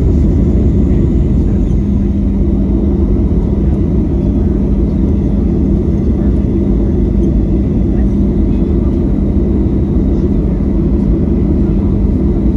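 Steady cabin drone of a Boeing 737-900 with its CFM56-7B jet engines running, a dense low rumble with a steady hum that comes in about a second and a half in.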